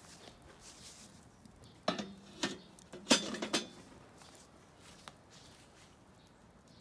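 Metal cookware being handled: a few clanks about two seconds in, then a louder cluster of clanks just after three seconds in, each with a short metallic ring.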